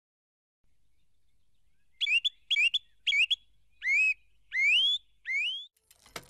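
A bird calling with six rising whistled notes, starting about two seconds in: three short quick notes, then three longer, slower upward sweeps.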